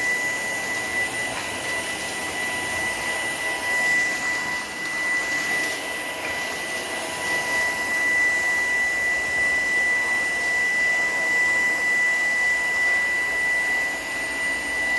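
Shark PowerDetect cordless vacuum running steadily in eco mode: a constant high motor whine over the rush of suction air.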